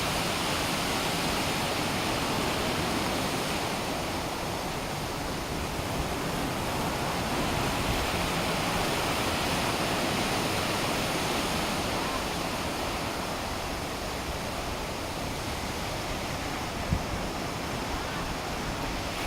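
Sea surf breaking on a beach: a steady wash of wave noise that swells and eases every few seconds.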